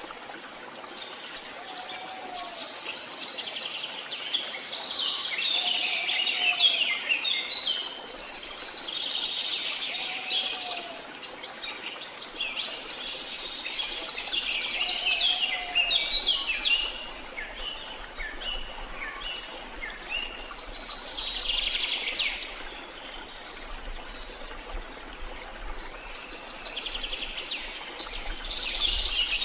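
Songbirds singing and chirping, a dense chorus of quick high twittering phrases that swell and ease every few seconds. A soft, lower short call repeats a few times under them in the first half.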